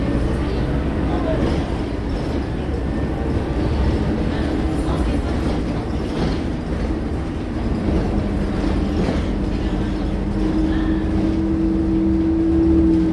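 Scania K230UB single-deck bus's diesel engine and drivetrain running under way, a steady rumble. In the second half a whine with two steady pitches comes in and climbs slightly in pitch near the end.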